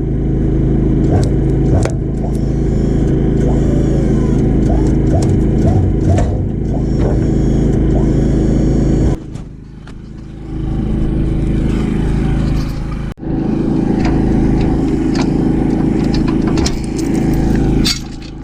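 A vehicle engine running steadily, with abrupt breaks about 9 and 13 seconds in.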